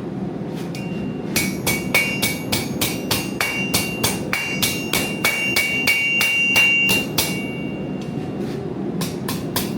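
Hand hammer striking metal in a quick even run of about four ringing blows a second, then a pause and a few more blows near the end.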